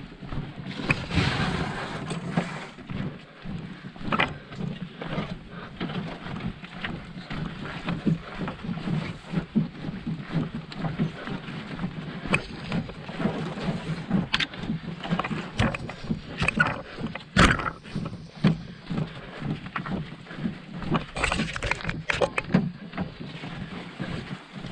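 A canoe being paddled: water splashing and gurgling around the paddle and hull, with frequent sharp knocks of the paddle or gear against the boat. Wind is rumbling on the microphone.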